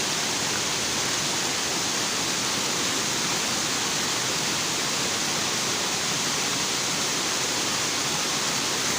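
Waterfall and its stream rushing: a steady, even hiss of falling and flowing water that does not change.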